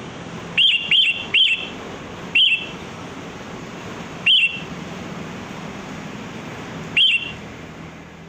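Sooty-headed bulbul (kutilang) giving six short, sharp chirps, each a quick upward flick. Three come in quick succession in the first second and a half, then the rest come singly a few seconds apart, over a steady background hiss.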